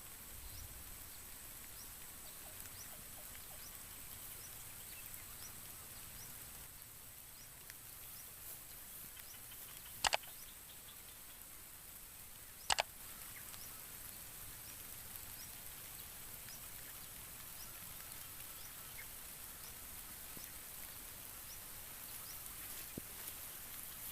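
Small bird chirping faintly and repeatedly with short high notes about every half second, over a steady high hiss. Near the middle come two loud, sharp double notes about two and a half seconds apart.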